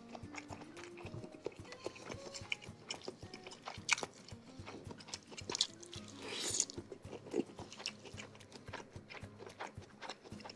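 Close-miked eating sounds of a person chewing and biting seblak, a spicy instant-noodle dish with crackers, meatballs and sausage: many small wet clicks with a few sharper ones. Soft background music runs underneath.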